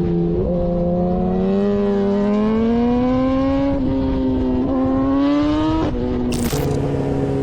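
Motorcycle engine running under way, its pitch climbing slowly with a few small jumps, then dropping near the end.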